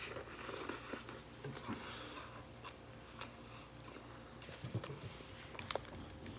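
Mouth noises of biting into and chewing a breaded fried-chicken burger: a dense crackle of chewing at first, then scattered wet clicks and smacks.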